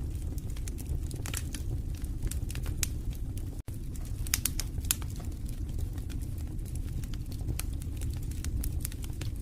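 Wood fire burning in a fireplace: a steady low rumble of flames with frequent irregular sharp crackles and pops. The sound cuts out for an instant about a third of the way in.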